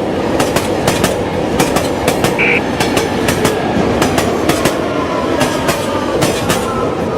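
Subway train running, with a steady rumble and irregular clatter of wheels over rail joints. A short high tone sounds about two and a half seconds in, and in the second half a whine falls slowly in pitch.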